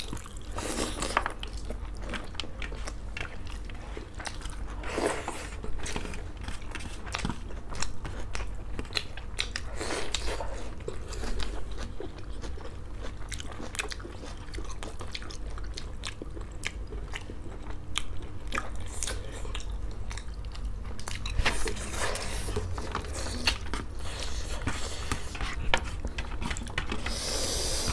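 Close-miked chewing and biting of two people eating rice and curry with their hands, with many small wet mouth clicks and smacks.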